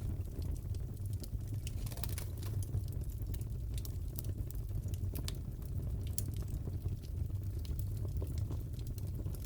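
Fireplace wood fire crackling: a steady low rumble of flames with irregular sharp pops and snaps scattered throughout.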